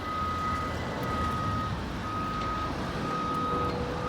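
A vehicle's reversing alarm beeping, about one steady-pitched beep a second, over a low steady rumble.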